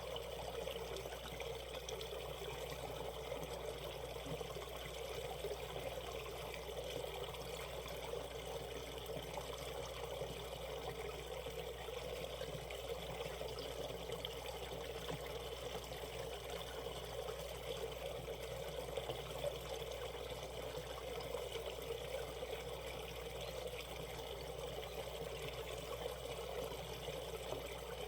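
Shallow valley stream running over rocks in a small rapid, a steady trickling and pouring of water.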